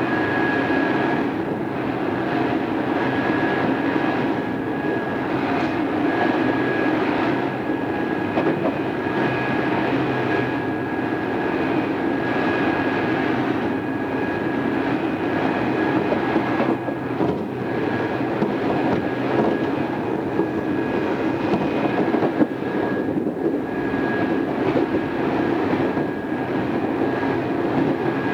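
Odakyu 2600 series electric train running at a steady speed. It is heard from inside the car, with a constant rumble, a steady thin whine, and the wheels knocking over rail joints at irregular intervals. It comes through an old cassette-tape recording.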